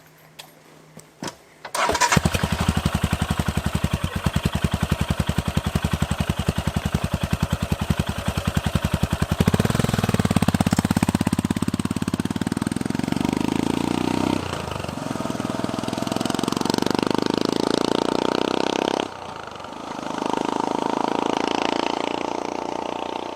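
Royal Enfield Himalayan's single-cylinder engine, fitted with a Lextek aftermarket end-can exhaust, starting about two seconds in and idling with an even thump. It then revs up and moves off, the revs dropping back twice.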